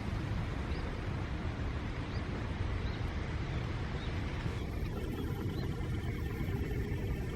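Steady low rumble with about five faint, short, high chirps of a small bird spread through it.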